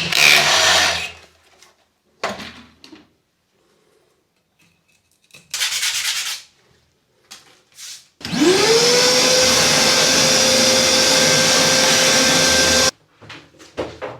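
A few short scraping and rubbing noises, then about eight seconds in an electric power tool's motor spins up quickly in pitch and runs steadily for about four and a half seconds before stopping abruptly.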